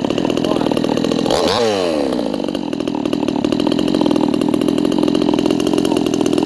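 58cc Chinese two-stroke chainsaw engine running. About one and a half seconds in there is a quick rev that falls back, and then it settles into a steady idle, with the idle speed newly turned up after it had been idling too low.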